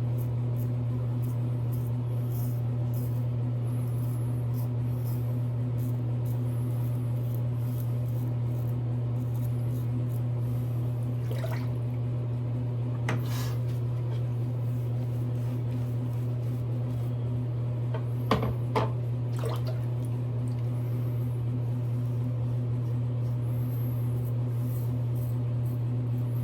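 Steady low hum, with faint scratchy strokes of a double-edge safety razor through lather and a few light clicks or taps around the middle.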